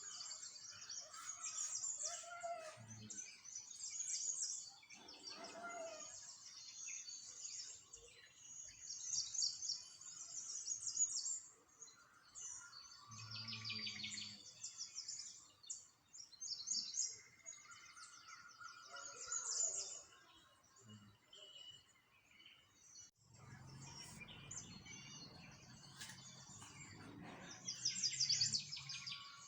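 Small songbirds chirping and twittering in repeated quick trills, with a low rumble underneath in the last few seconds.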